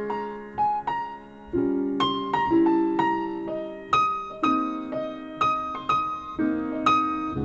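Piano playing a slow ballad: held chords under single melody notes, struck every half second to a second, reproduced through hi-fi loudspeakers (JBL K2 S5500) and picked up in the room.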